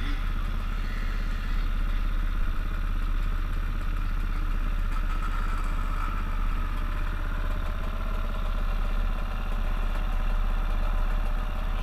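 Enduro motorcycle engine idling steadily, close to the microphone, with an even low putter.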